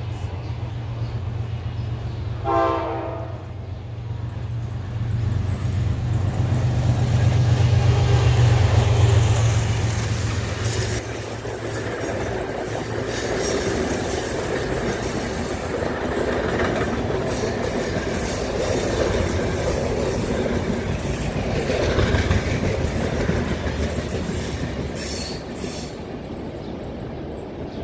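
Express passenger train passing at speed: a short horn blast about two and a half seconds in over the locomotive's low engine drone, which swells to its loudest around eight seconds in. The rush and clickety-clack of the carriages' wheels on the rails follow and run on, fading slightly near the end.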